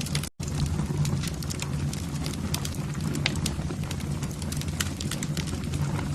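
Wood fire burning in a fireplace: irregular sharp crackles and pops over a steady low rumble of the flames. The sound cuts out for an instant about a third of a second in.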